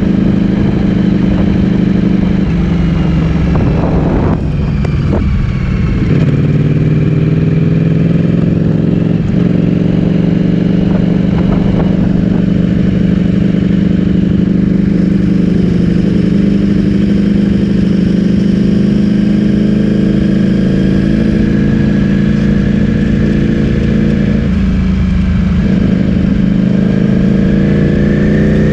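Ducati Streetfighter V4S's V4 engine through an Akrapovic full-system exhaust, running at a fairly steady engine speed as the bike is ridden. The note breaks briefly about five seconds in and climbs in pitch near the end.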